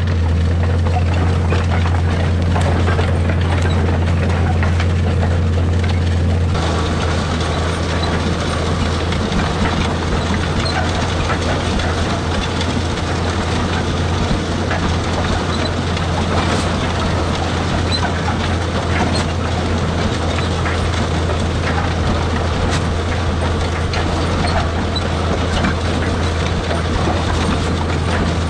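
White 6125 tractor's engine running steadily under load, a deep constant drone with rattling machine noise over it; the noise turns brighter about six seconds in.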